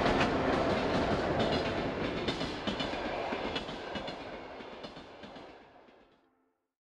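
Passenger train carriages rolling past, a steady rumble with scattered sharp clicks from the wheels, fading away to nothing near the end.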